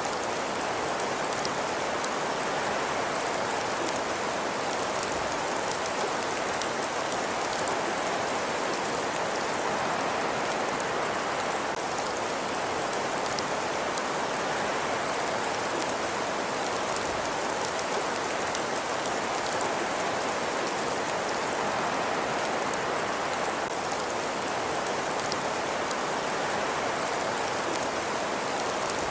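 Ambience track of a fireplace crackling: a steady hiss peppered with fine, irregular crackles and ticks.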